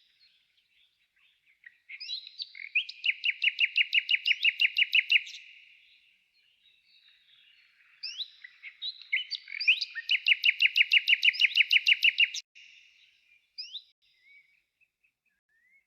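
A songbird singing two phrases, each a few short opening notes followed by a fast, even run of repeated chirps, with scattered single calls between and after them.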